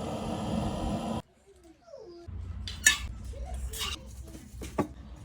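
A steady rushing noise cuts off about a second in. After a pause, a few sharp clinks of tableware are heard over a low hum, the loudest about three seconds in.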